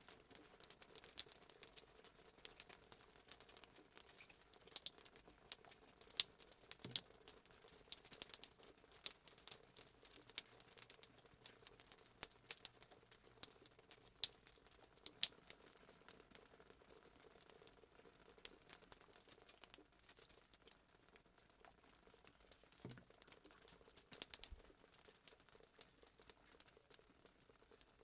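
Crackling fireplace sound effect: a dense, irregular run of small pops and snaps over a faint steady hiss of flames.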